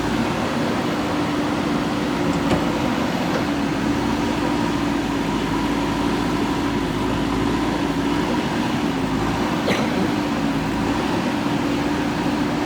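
JCB 3DX backhoe loader's diesel engine running at a steady, even speed, with a constant hum and no revving. Two faint clicks sound over it, one a couple of seconds in and one near the end.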